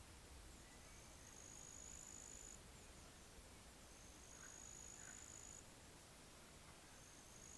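Faint, high-pitched insect trill in an outdoor nature setting. Each trill lasts about two seconds and it repeats about every three seconds, three times in all, over faint scattered bird chirps.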